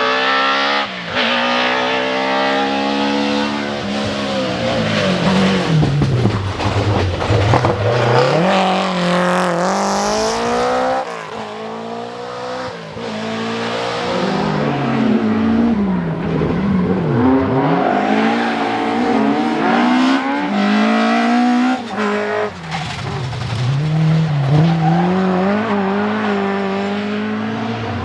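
Rally car engines revving hard and changing gear, pitch repeatedly climbing and dropping as the cars brake and accelerate through the stage, with some tyre squeal.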